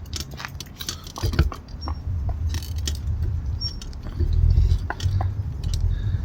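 Irregular rattling and jangling of a moving bicycle over uneven ground, over a low rumble that swells about four seconds in.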